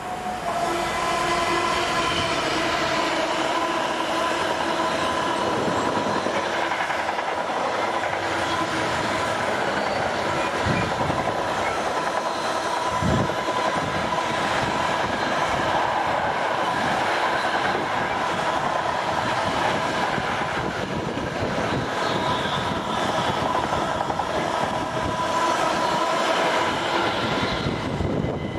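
Class 66 diesel locomotive and its train of loaded car-carrier wagons passing close by on the rails. The wheels clatter continuously over the track, and a steady whining tone runs underneath. Two low thumps come about halfway through.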